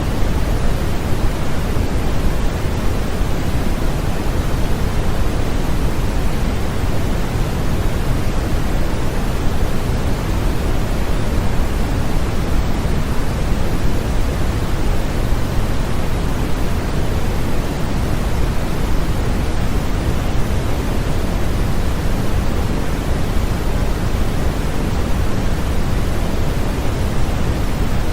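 Steady, unbroken synthetic noise played as a sleep-aid masking sound: an even hiss weighted toward the low end, like pink noise, with no change throughout.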